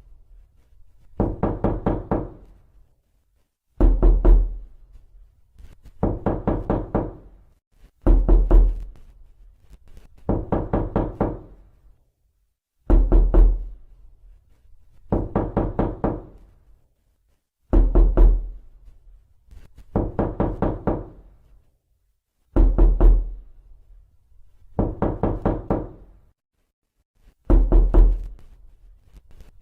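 Knocking on a door: a heavy knock with a deep thud, then a quick run of about five knocks, the pattern repeating about every five seconds with short pauses between.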